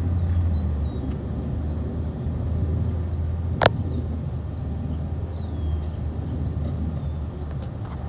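Garbage truck's diesel engine running with a steady low hum, with birds chirping in the background and one sharp click or knock about three and a half seconds in.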